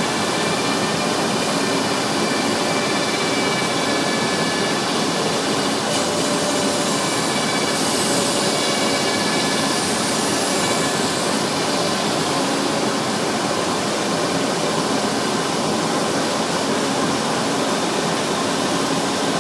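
Propeller sanding machine running: a steady sanding noise with several thin high whining tones held through it.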